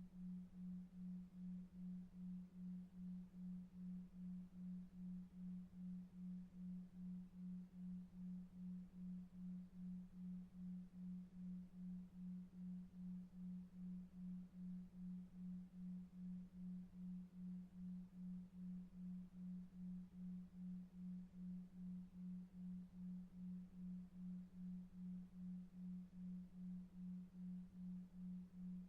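A soft low hum pulsing evenly about two and a half times a second, over faint brown noise: a 2.5 Hz delta-wave pulsed tone made for sleep.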